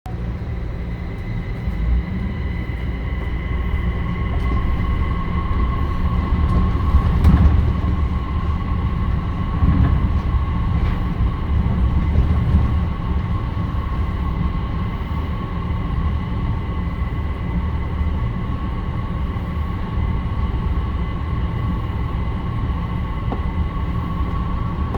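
Busan Metro Line 4 rubber-tyred light-rail train running: a steady low rumble with a steady whine, and a few brief knocks about a third of the way in.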